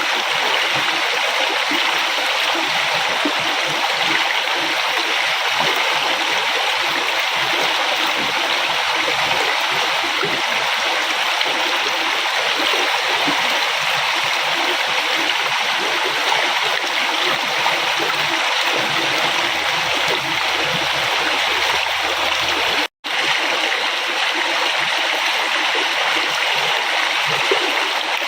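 River water flowing and splashing in a steady rush, with a momentary cut to silence about two-thirds of the way through.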